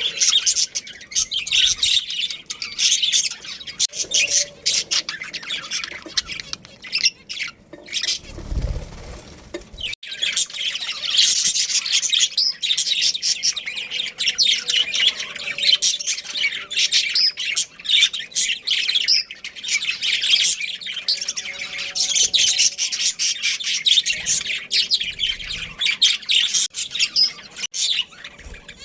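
Budgerigars chattering in a group, with dense, rapid high chirps and squawks. The chatter drops off for a couple of seconds around eight seconds in, while a short low rumble sounds.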